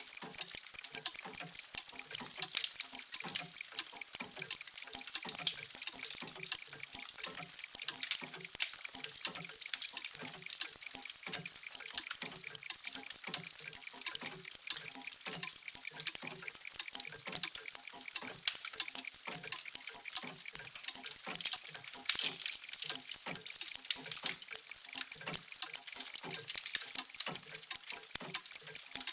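Many mechanical clocks ticking at once and out of step with one another, making a steady, dense patter of small clicks.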